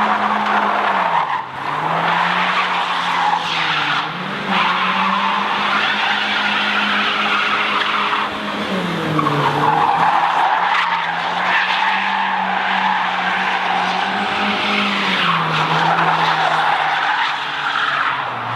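BMW 316i E36's four-cylinder engine held at high revs in a drift, the revs dropping and climbing back twice, with the rear tyres squealing and skidding throughout.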